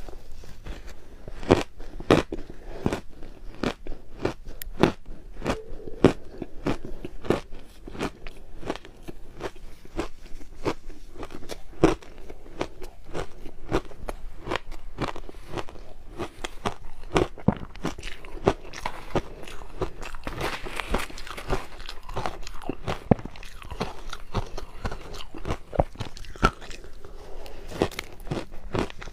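Crushed ice being bitten and chewed close to the microphone: a continuous run of sharp, crisp crunches, several a second, with a denser gritty grinding stretch about two-thirds of the way through.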